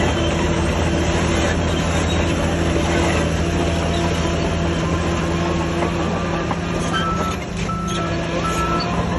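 Heavy earthmoving machinery running steadily: a constant low engine drone with metallic clatter and squeal, and a reversing alarm beeping at an even pace, its beeps shifting to a higher pitch near the end.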